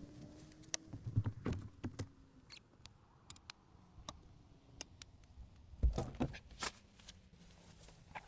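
Irregular light clicks, taps and rustles, with a heavier thump about six seconds in.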